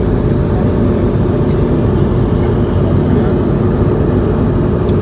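Steady cabin drone inside an Airbus A220-100 in cruise: airflow and engine noise, heaviest in the low range, with a faint steady hum running through it.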